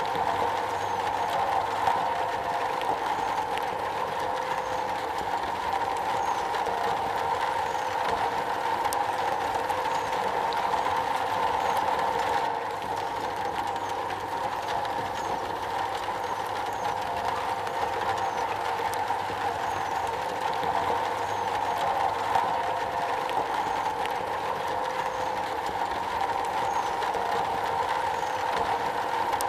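Steady rain falling on metal: a dense, even patter of drops with many fine ticks, briefly a little softer about twelve seconds in.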